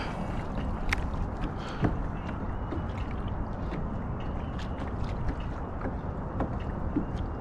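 Wind buffeting the microphone as a steady low rumble, with scattered faint ticks over it.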